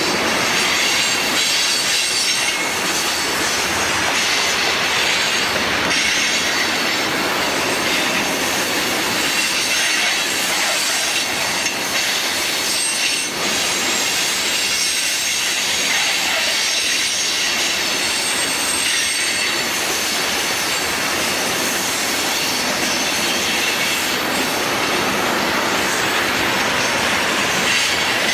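Freight train of tank cars rolling past on curved track: a steady rumble and rattle of steel wheels on rail, with a thin, high-pitched wheel squeal running over it.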